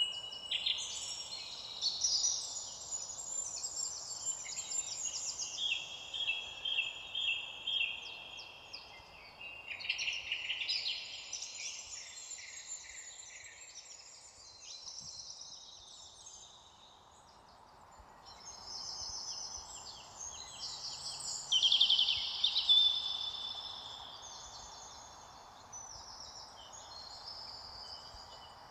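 Several songbirds singing and calling at once, with overlapping rapid trills and chirps over a faint steady outdoor hiss. The song comes in bouts, busiest in the first half and again about three quarters of the way through.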